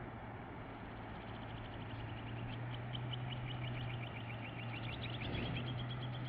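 River water rushing steadily. About two seconds in, a bird joins with a rapid trill of short, high chirps repeated several times a second.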